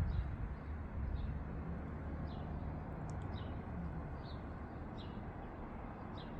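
Small birds chirping, short high calls repeated every half second or so, over a steady low rumble.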